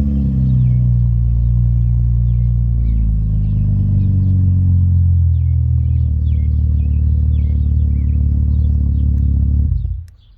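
2012 Chevrolet Camaro's 3.6-litre V6 idling after a cold start, with a deep, throaty exhaust note through resonator-deleted Magnaflow straight-through mufflers. The idle eases down slightly in the first few seconds, then holds steady. Near the end the engine is switched off and the sound cuts out suddenly.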